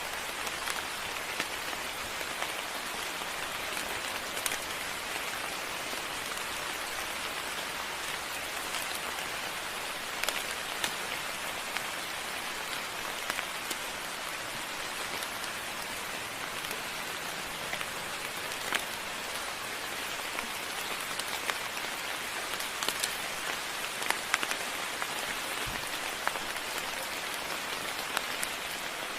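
Moderate rain falling steadily, an even hiss with many scattered sharper drop hits.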